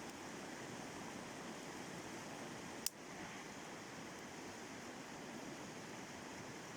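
Steady rushing of a river rapid, with one sharp click about three seconds in.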